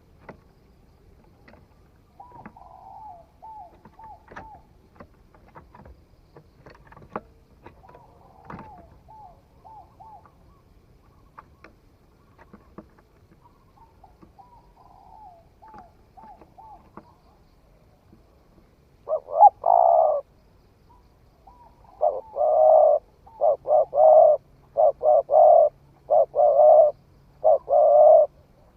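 Spotted dove cooing: soft, faint, fluttering coos with scattered clicks at first, then from about two-thirds of the way through, loud cooing in quick repeated phrases.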